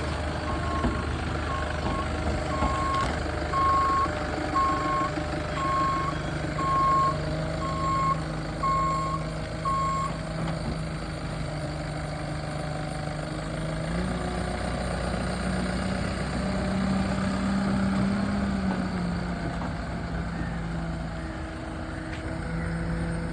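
Tata Hitachi Shinrai Prime backhoe loader with its Kubota four-cylinder engine running, its reversing alarm beeping about once a second until about ten seconds in. The engine then speeds up briefly and settles back.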